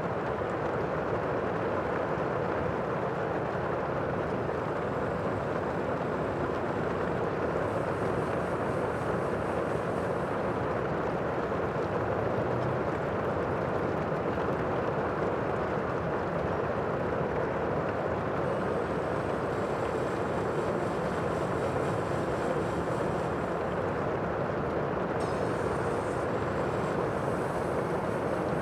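Sea ambience: a steady, even rushing noise with no distinct wave breaks or swells.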